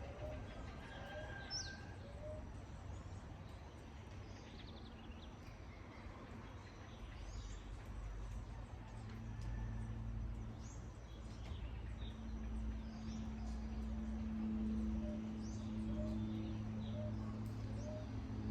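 Small birds chirping and calling now and then over a steady low outdoor rumble, with a short call repeated about twice a second at the start and again near the end. About halfway through a steady low hum sets in and grows louder.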